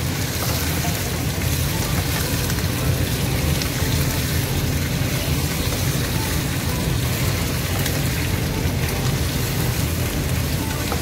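Raw chicken pieces sizzling as they fry in hot oil in a wok, stirred with a spatula, over a steady low hum.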